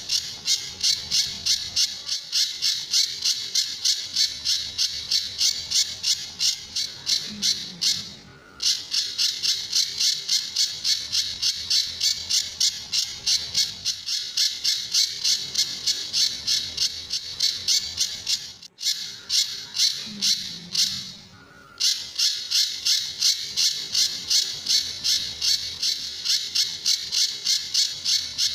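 Pijantur bird calling: a fast, even train of sharp, high notes, about three a second, broken by two short pauses, about a third and about three quarters of the way through.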